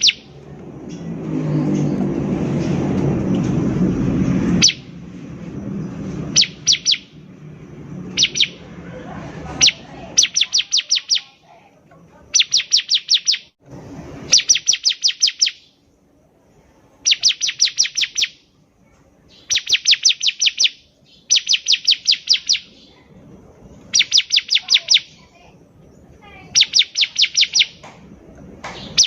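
Bar-winged prinia (ciblek) song: short bursts of rapid, sharp high chirps, each about a second long, repeated every two to three seconds. During the first few seconds a loud low rushing noise builds up and then stops abruptly, about five seconds in.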